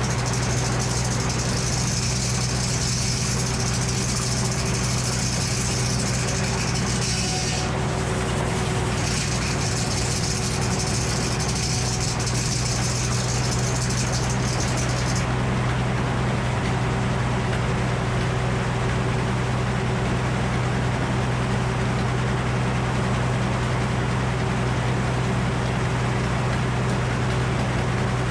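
Frick circular sawmill running, its power unit making a steady drone. A high hiss rides over it through the first half, breaks off briefly about eight seconds in, and stops about halfway through.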